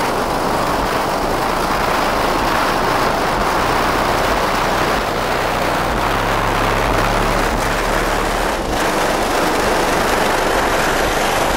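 Twelve Sundown SA-10 subwoofers driven by two DC Audio 3500 amplifiers playing very loud bass, the low notes heavier from about halfway through. The truck's undeadened body panels and roof buzz and rattle along with it.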